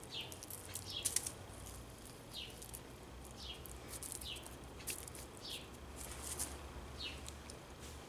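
A bird calling over and over with short, high chirps that fall in pitch, roughly one a second, with faint light clicks and rustles between them.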